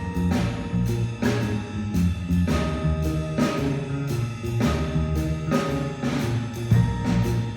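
Small live band playing instrumentally: a drum kit keeps a steady beat with cymbal strikes, an electric bass plays low notes, and a vibraphone rings out held notes over them.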